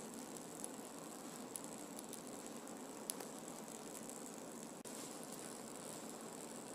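Faint steady hiss of room tone, with a few small faint clicks.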